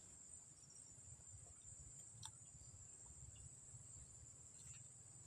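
Faint, steady, high-pitched chirring of insects, with a low rumble underneath and a faint click a little over two seconds in.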